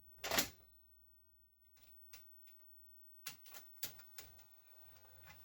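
A Panasonic PV-1200 VCR's mechanism clicking and clacking as it is worked: one loud click, then scattered small clicks and a quick cluster of clacks about three to four seconds in. The machine is being tried out to see whether its freshly refitted rubber belt is strong enough to drive it.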